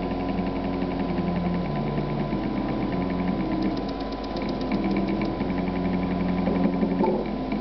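Stepper motors of a DIY CNC hot-wire foam cutter running, with a steady whine that jumps to a new pitch every second or so as the axis speeds change along the cut. A fast run of faint ticks comes in around the middle.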